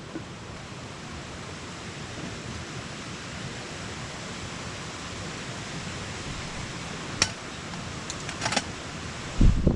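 Steady hiss of typhoon rain and wind. A few sharp clicks come after about seven seconds, and a loud low thump near the end.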